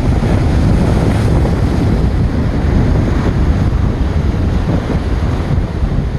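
Strong wind buffeting the microphone with a low rumble, over ocean surf breaking against a rock jetty, with a surge of wave wash about a second in.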